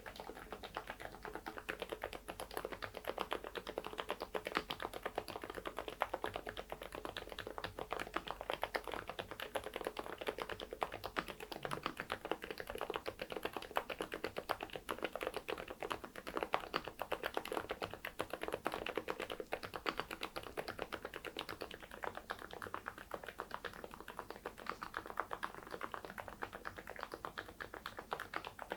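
Typing on an AULA F99MAX mechanical keyboard fitted with Saebyeok silent linear switches and baseball keycaps: a steady, fast stream of muted keystrokes.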